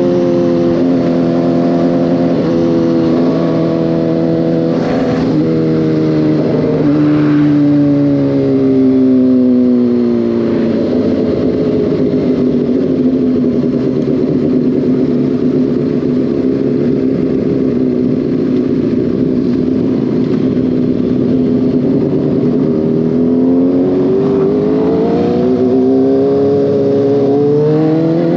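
Motorcycle engine heard while riding. Its pitch shifts in steps over the first several seconds, then falls as the bike slows about ten seconds in. It runs steady at low revs through the middle, then climbs as it accelerates near the end.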